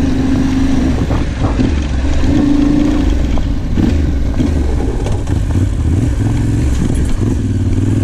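Yamaha Ténéré 700's parallel-twin engine running under way on a dirt track, its note rising and falling with the throttle, with a few brief knocks from the rough ground.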